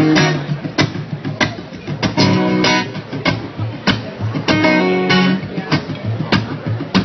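Acoustic guitar strummed in a steady rhythm with sharp percussive strokes, playing a song's intro before the vocals start.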